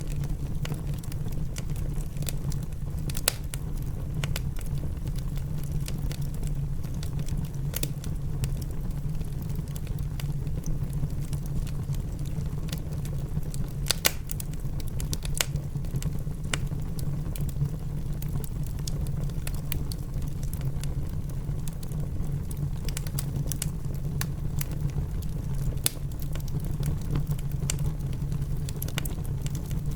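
Fireplace wood fire crackling, with sharp pops at irregular moments, over a steady low rumble of rain.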